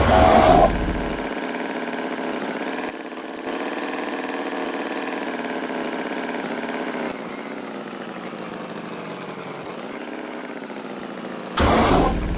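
An engine running steadily at idle, with louder bursts in the first second and again near the end.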